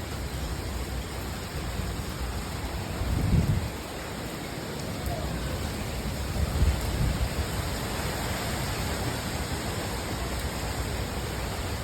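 Steady hiss of heavy storm rain, with two louder low rumbles about three and a half and six and a half seconds in.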